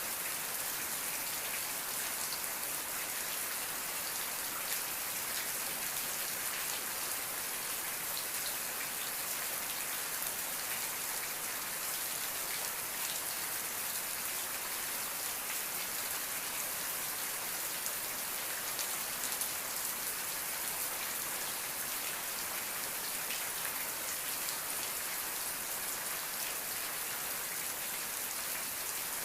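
Steady rain falling on a surface, a constant hiss full of fine drop patter.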